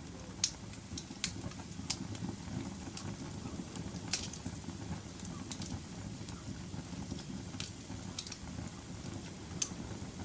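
Wood fire burning in a fireplace: a steady low rush of flames with about eight sharp, irregular crackles and pops, the loudest near the start and about four seconds in.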